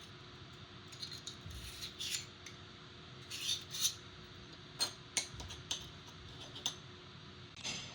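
Faint, irregular rustling and light clicks of small parts being handled: thermal silicone pads and an aluminium M.2 SSD heatsink being fitted by hand.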